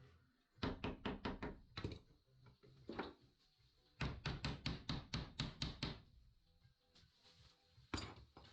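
Hammer striking wood in two quick runs of blows, about five or six a second, with single knocks in between.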